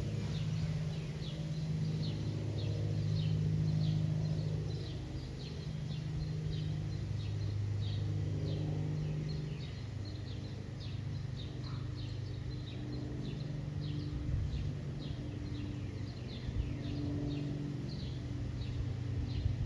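Cessna 421C Golden Eagle's twin geared, turbocharged six-cylinder piston engines and propellers droning overhead, loudest about three to four seconds in and then easing off slightly. Rapid high-pitched chirping, about two a second, runs underneath.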